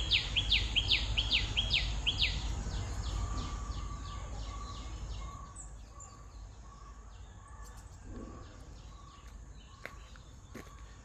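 A bird calling a rapid series of sharp, downward-slurred notes, about four a second, loud at first and fading away over the next few seconds. A steady high insect-like drone and a faint, evenly repeated lower note continue behind it.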